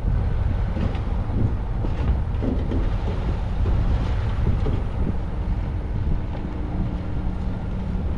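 Heavy diesel earthmoving machinery running: a loud, deep engine rumble with scattered knocks and clatter, and a steadier engine note in the second half.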